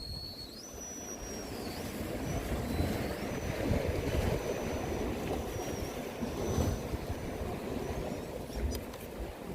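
Brushless RC crawler motor (a 3Brothers Yellow Jacket 2000kv on a Mamba X ESC) whining as the crawler drives over rocks. The thin high whine steps up and down in pitch with the throttle, over a steady background rush.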